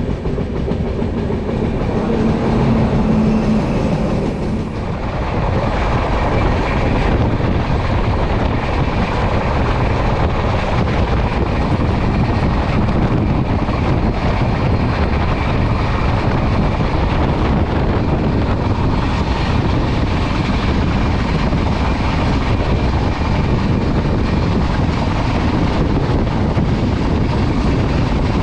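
Passenger train running at speed: a steady rush of wheel and track noise that grows louder and fuller about five seconds in.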